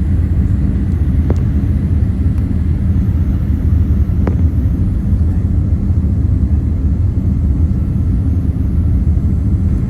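Steady low rumble of a Boeing 787-8's cabin in flight, engine and airflow noise during the climb shortly after takeoff, with two faint clicks.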